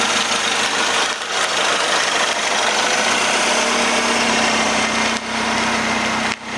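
Mini Countryman S turbocharged 1.6-litre four-cylinder engine running, with a steady low hum settling in about halfway through.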